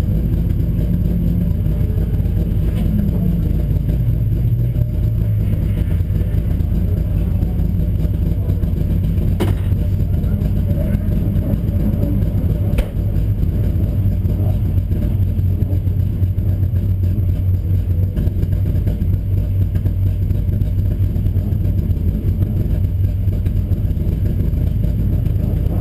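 Bilcross car's engine idling, heard from inside its stripped cabin: a steady low hum, with a few small lifts in pitch in the first few seconds. Two sharp clicks stand out, about ten and thirteen seconds in.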